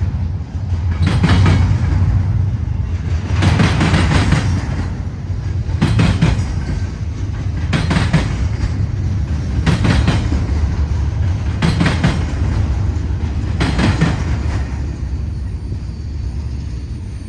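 Freight train cars rolling past at steady speed: a continuous low rumble with wheels clattering over the rail joints about every two seconds. The sound fades near the end as the train passes.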